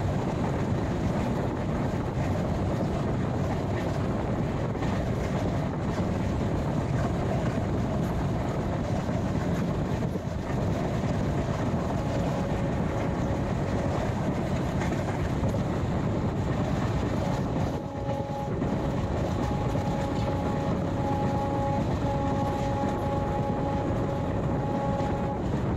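Passenger express train running on the track: a steady, loud rumble of the coaches and wheels. From about twelve seconds in a steady tone sounds, joined after about eighteen seconds by higher tones that hold, with short breaks, until near the end.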